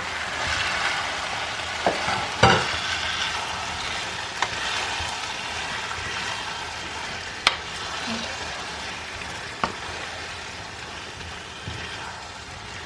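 Vegetables and freshly added chopped tomatoes sizzling in a frying pan, the hiss slowly easing off, with a utensil knocking sharply against the pan about five times as the mixture is stirred.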